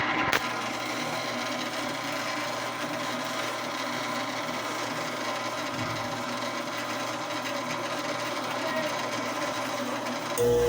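Old Brastemp washing machine running with a steady mechanical whirring hum, its mechanism rubbing. It grows louder with a clear tone near the end. The machine has a fault that stops it from agitating or spinning.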